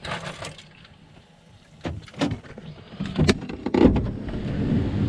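A camper van door being unlatched and opened: a series of clicks and clunks, loudest a little under four seconds in. A steady outdoor hiss follows.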